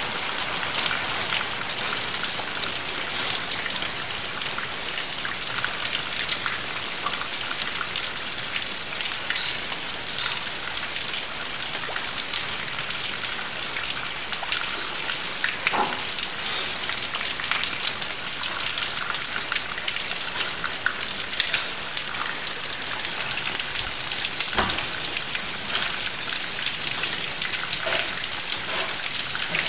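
Steady rain: a dense, even patter of drops, with a few louder single drops landing close by a little past halfway and near the end.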